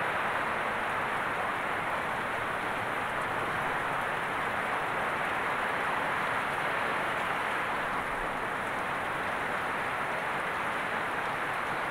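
Heavy rain falling steadily onto leafy plants, a dense, even rush of noise that holds at the same level throughout.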